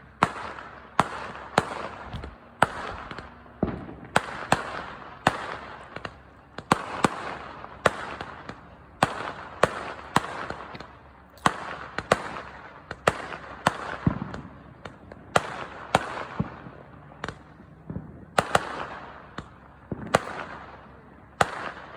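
New Year's fireworks going off in a long, irregular run of sharp bangs, about one or two a second, each trailing off in an echoing rumble.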